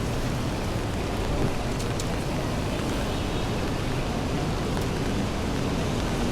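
Heavy rain falling as a steady hiss, with a faint click or two about two seconds in.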